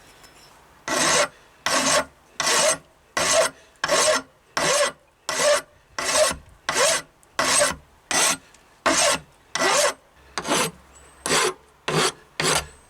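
A hand file rasping on the steel of a hatchet head, taking scars and burrs off the back. It goes in even push strokes, about three every two seconds, starting a second in and quickening slightly near the end.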